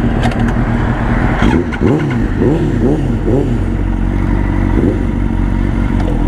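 Yamaha R1 sport bike's inline-four engine running under way, its revs swinging up and down quickly several times between about one and a half and three and a half seconds in, and once more near the end.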